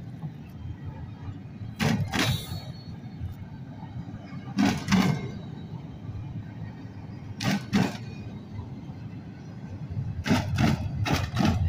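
Freight train of intermodal well cars rolling past slowly: a steady low rumble of wheels on rail, with sharp double clacks every few seconds as each set of wheels crosses a spot in the track, and a quick run of clacks near the end where two cars meet.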